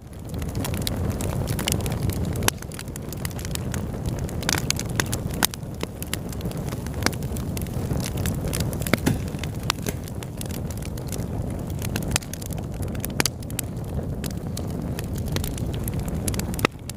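Wood fire burning in a fireplace: a steady low rush with frequent sharp crackles and pops at irregular intervals, starting abruptly.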